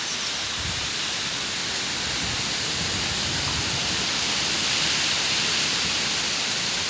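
Heavy rain falling in a storm, a steady hiss that swells slightly midway.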